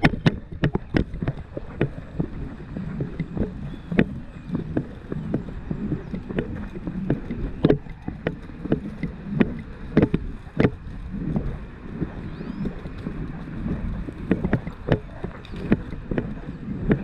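A horse being ridden: hoofbeats and the knocking and clinking of tack, with sharp irregular clicks over a low rumble, picked up on a rider-worn GoPro.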